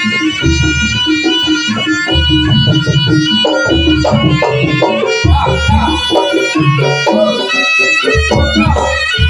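Javanese jaranan music played loudly: a reedy shawm-like melody held over repeated low kendang drum strokes.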